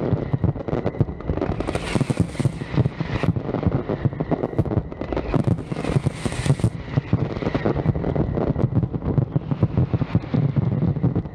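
Fireworks display firing a rapid, continuous barrage of bangs and booms, with two loud hissing bursts at about two seconds in and about six seconds in.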